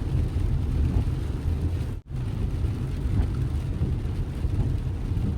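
Steady low rumble of a car being driven, road and engine noise, which cuts out for a split second about two seconds in.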